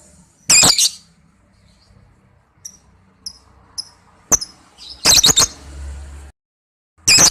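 Lovebird giving loud, shrill screeching calls in three short bursts: about half a second in, around five seconds in, and at the very end. A few faint short chirps and a single sharp click fall between them.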